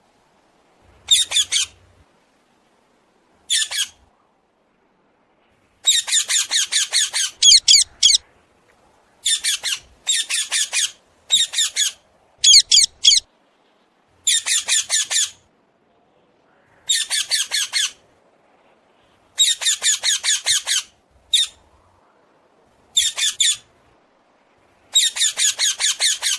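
Hill myna giving harsh squawks over and over, each call a quick run of rapid pulses lasting about a second, with short silent pauses between calls.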